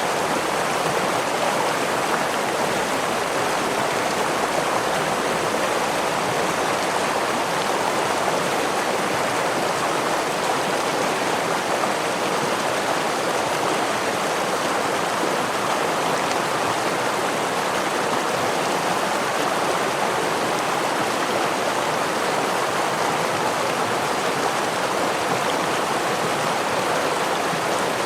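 Gentle stream of running water flowing steadily, an even rush of water with no breaks or changes.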